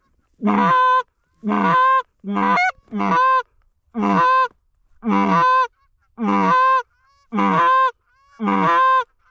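Canada goose call blown in a steady cadence: nine separate honks about one a second, each starting low and breaking sharply up into a higher note.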